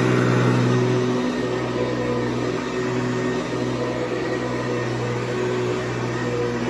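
Hoover Convertible Elite U4153 upright vacuum running: its 4.3-amp motor and 11-blade plastic fan give a steady hum.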